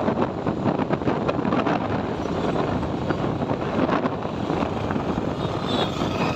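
Wind rushing over the microphone of a moving motorcycle, mixed with the bike's engine and road noise at a steady speed.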